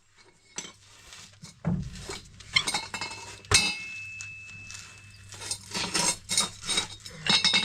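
Hand tools clinking and knocking against steel while working on a mower conditioner's worn skid plate, a run of irregular metallic clicks and taps. One sharp metal strike about three and a half seconds in rings briefly.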